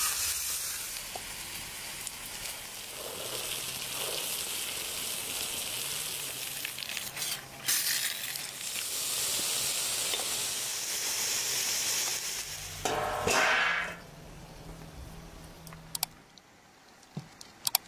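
Sliced onions sizzling as they fry in oil in a wide pan over a wood fire, stirred with a wooden spatula. About thirteen seconds in there is a short louder burst of noise, after which the sizzle dies down to quieter sounds with a few sharp clicks near the end.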